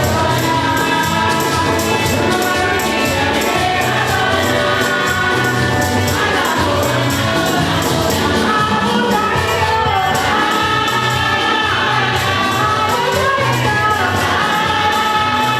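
A choir of many voices singing together over a steady beat with repeating low bass notes.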